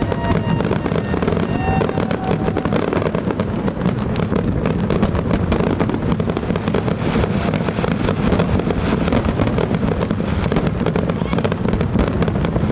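Aerial fireworks finale: a dense, unbroken barrage of overlapping bangs and crackles, with no pause between bursts.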